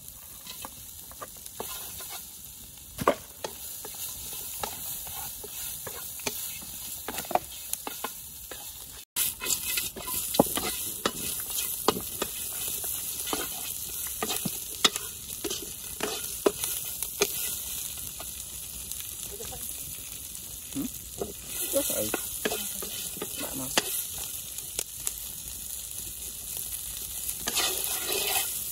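Spiders, greens and chilli frying in a wok, sizzling, while a wooden spatula stirs and clicks against the pan. The sizzling breaks off briefly about nine seconds in and is louder after.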